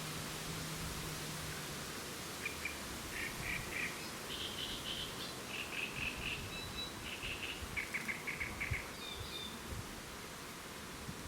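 A songbird singing over steady outdoor wind noise: short phrases of quick repeated notes, each phrase at a different pitch, starting a couple of seconds in and ending with a higher note near the end.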